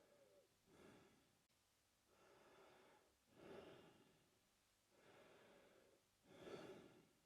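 A man breathing slowly and faintly through his mouth. There are about three full breath cycles, each a softer, longer breath followed by a shorter, louder one.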